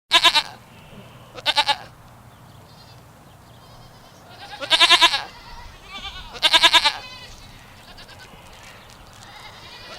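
Four short, wavering bleats from a farm animal, the two near the middle longer and louder.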